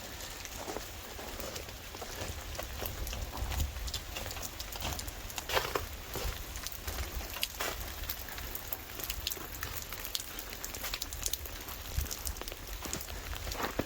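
Rain falling: a steady hiss full of irregular drops pattering on surfaces, with a low rumble underneath.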